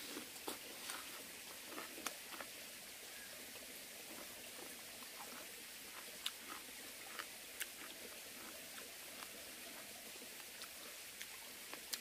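A mouthful of crisp Korean melon (chamoe) being chewed, heard as faint, scattered wet clicks and small crunches.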